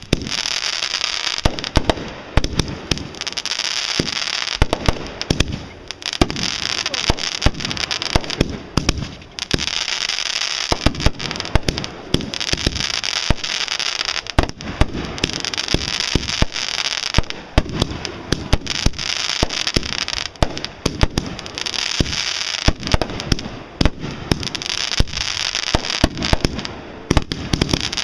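Fireworks going off without a break: dense crackling with many sharp bangs scattered through it.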